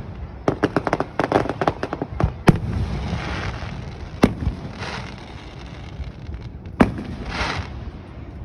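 Fireworks going off: a quick run of sharp pops in the first couple of seconds, then three louder single bangs spread over the rest, with crackling hisses trailing after them.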